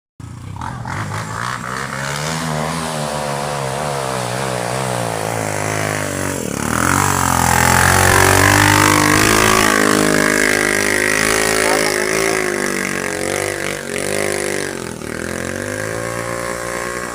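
Motocross dirt bike engine running and revving, its pitch rising and falling, louder for a few seconds in the middle.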